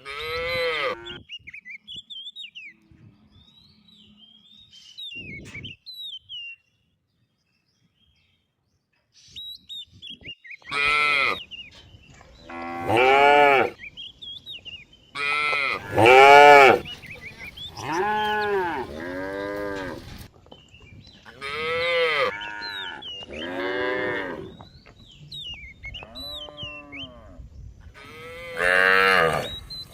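Cattle mooing over and over: one call at the start, then, after a quiet stretch, a long run of loud moos from about ten seconds in, often a second or two apart. Small birds chirp faintly between the calls.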